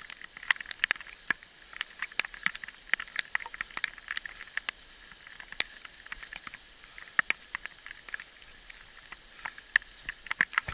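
Gravel crunching on a dirt track: irregular sharp clicks and crackles.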